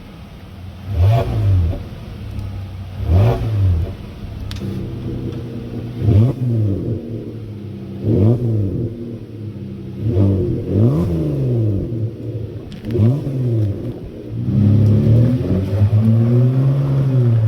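Kia The New Carnival minivan's engine revved through a custom single-exit electronic valved exhaust: about six short throttle blips, each rising and falling, roughly every two seconds. Near the end it changes to a steady, sustained exhaust note as the van is driven.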